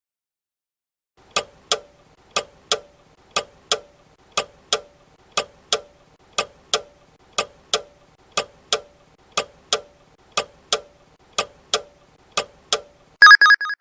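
Clock tick-tock sound effect counting down the answer time, two ticks each second for about twelve seconds, then a short, very loud ringing alarm near the end as the time runs out.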